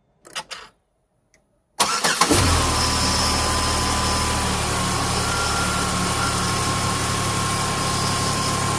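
A few faint clicks, then the Pontiac G6's engine starts abruptly about two seconds in and settles into a steady idle. It sounds great, with no odd noise.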